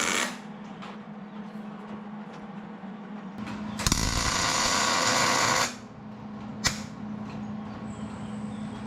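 Arc welder laying tack welds: a burst of arc noise cuts off just after the start, and a second burst of about two seconds begins about four seconds in. A sharp click follows, over a steady low hum.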